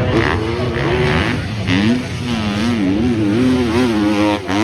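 Motocross bike engines revving on track, the pitch wavering up and down quickly as the riders work the throttle, with a brief drop in loudness near the end.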